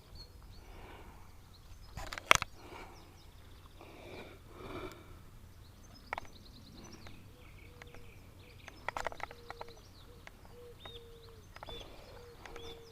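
Outdoor garden ambience: small birds chirping in short high notes, with soft rustling early on and a single sharp click about two seconds in.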